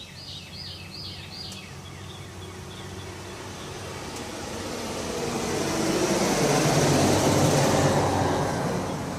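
A vehicle approaching and passing: a broad rushing noise grows steadily louder, is loudest about seven seconds in, then starts to fade. A bird chirps four times at the start.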